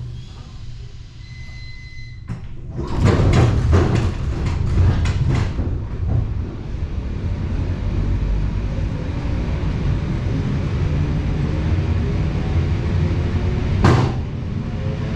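Suburban electric train's doors banging shut with a cluster of loud clatters, then the train pulling away, its traction motors' whine rising steadily in pitch as it speeds up over a rumble of wheels. A short beep sounds just before the doors shut, and a single sharp knock comes near the end.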